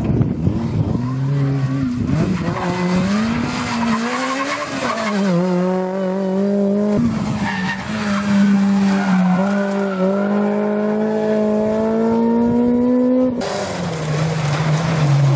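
Rally car engine running hard, its revs rising and falling through the gears, then climbing steadily over several seconds. About 13 seconds in, the sound cuts abruptly to another rally car at lower revs that drop away.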